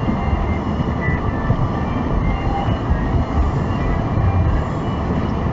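Steady low rumble of a car's road and engine noise inside the cabin while driving.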